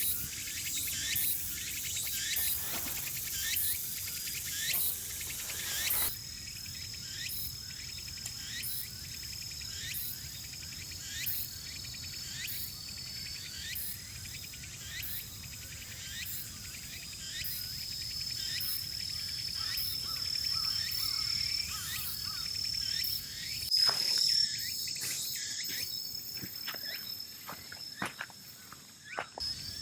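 Insects chirping in a steady high-pitched trill, with scattered light taps throughout and a louder knock late on.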